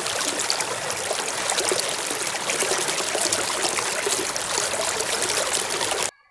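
Water running and splashing as a muddy toy airplane is washed clean. It stops abruptly near the end.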